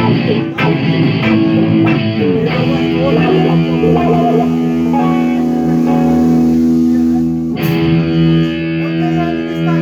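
Electric guitar played alone: a few quick picked notes, then held chords left ringing, with a new chord struck about three-quarters of the way through.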